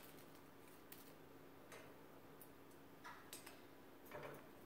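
Near silence broken by about five faint, scattered clicks and dry crinkles as a moustached parakeet picks at dried roses.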